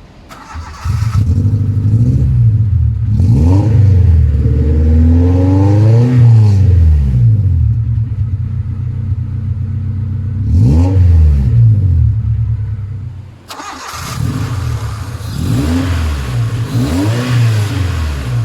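1996 Honda Civic VTi's 1.6-litre VTEC four-cylinder engine starting about a second in and idling, then revved repeatedly, each rev a quick rise and fall in pitch, with a quicker run of revs near the end.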